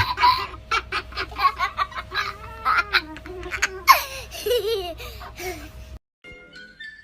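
Laughter in quick repeated bursts that cuts off suddenly about six seconds in, followed by a few faint musical notes.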